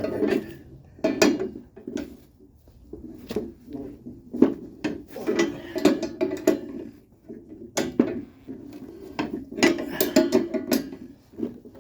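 Irregular metallic clanks and clicks of hand tools and coil-spring strut parts being handled, as a spring compressor is worked on the spring.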